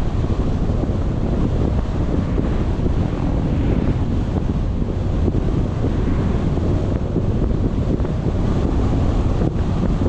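Wind buffeting the microphone: a steady, loud, low rushing noise with no breaks.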